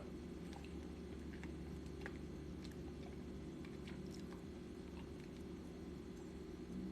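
Quiet room tone: a steady low hum with faint, scattered small clicks.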